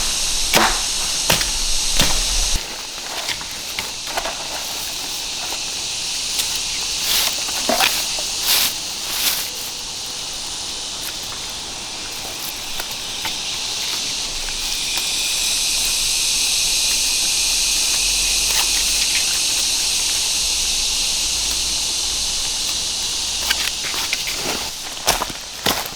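Steady high-pitched insect drone of a forest, growing louder about halfway through, with scattered clicks and rustles of twigs and leaves being handled and stepped on.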